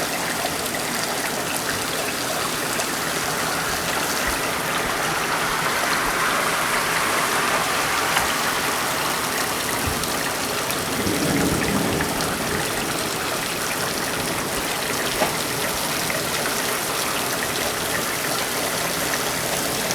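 Torrential rain falling steadily, with water pouring and splashing off overflowing gutters.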